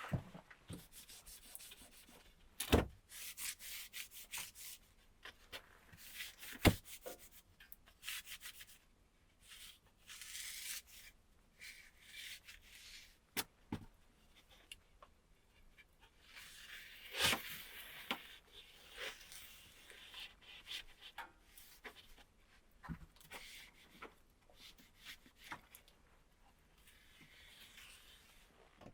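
Stop-start rubbing and scraping on wood, with a few sharp knocks, the loudest about three and seven seconds in.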